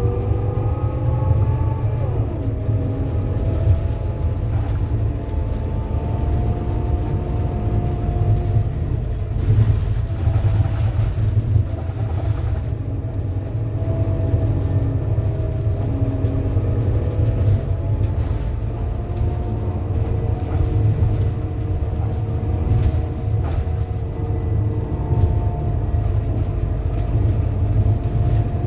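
Scania Lahti Scala K230UB city bus with a ZF Ecomat automatic gearbox on the move: a steady low diesel rumble with a whining tone above it that rises and falls as the bus speeds up, shifts and slows, including a falling glide about two seconds in.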